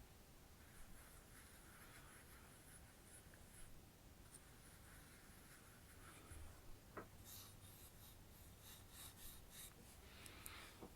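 Faint, scratchy brushing of a makeup brush, soft strokes that grow busier after about seven seconds, with one light tap.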